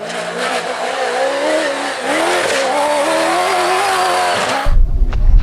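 Rally-raid vehicle engine revving hard, its pitch rising and falling, over loud tyre and gravel noise. About four and a half seconds in it cuts off abruptly to a heavy low rumble of wind on the microphone.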